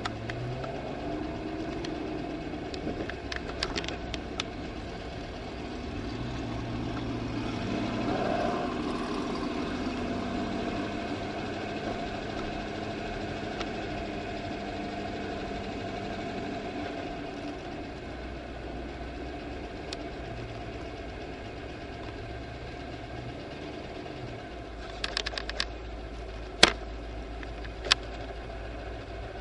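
C5 Corvette Z06's V8 running at low speed and idle, heard from inside the cabin, swelling a little about eight seconds in. A few sharp clicks near the end.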